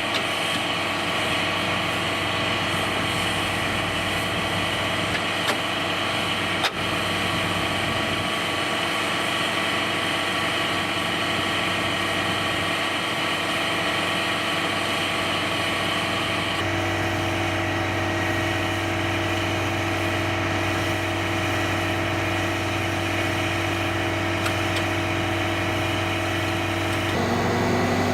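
Heavy truck engine running steadily at idle. Its note changes abruptly twice, about two-thirds of the way through and again near the end.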